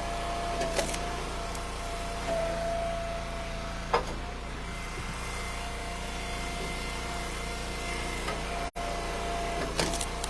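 Engine of an Eastonmade Ultra wood splitter running steadily, with a sharp knock about four seconds in and a few lighter clicks.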